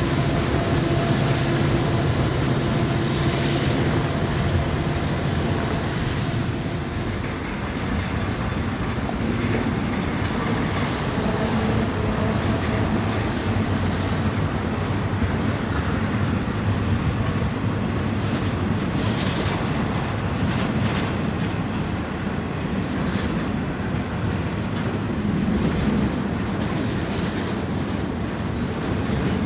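Freight train rolling on the rails: a diesel locomotive's steady engine drone at first. After several seconds this gives way to the continuous rumble and clatter of freight cars' wheels on the track.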